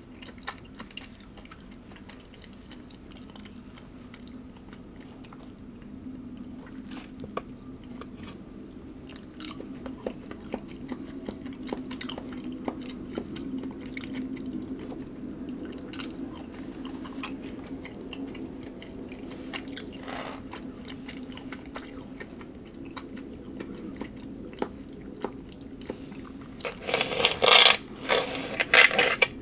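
A person chewing food close to the microphone, with small wet mouth clicks throughout. Near the end come several loud, sharp crunches as something crisp is bitten and chewed.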